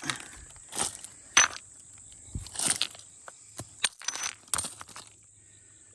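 Creek gravel and chert stones clinking and crunching: a string of sharp, irregular knocks for about five seconds, then they stop.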